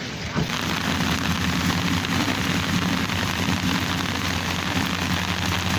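Steady drone of a ship's engine under a dense hiss of rain and wind, starting about half a second in.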